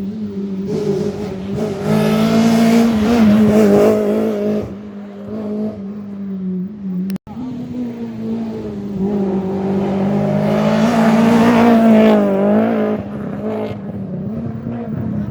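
Rally cars on a closed special stage, engines at full throttle, passing one after another. The engine note swells to its loudest twice, about three seconds in and again about eleven seconds in, with a sudden break in the sound between the two passes.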